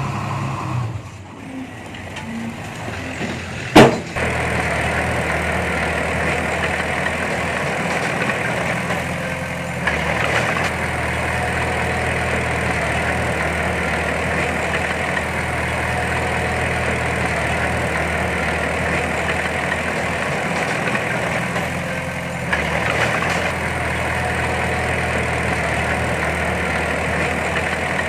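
Heavy diesel engine of earthmoving machinery running steadily, with a single sharp, loud clack about four seconds in.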